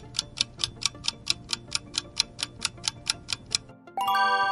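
Countdown timer sound effect ticking rapidly, about four to five ticks a second, over faint background music, then a bright chime about four seconds in that ends the countdown.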